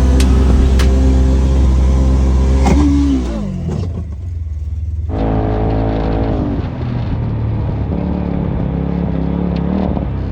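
Side-by-side UTV engine running steadily at high revs, then the revs fall away about three seconds in. After a brief lull an engine picks up again and runs at lower, steady revs.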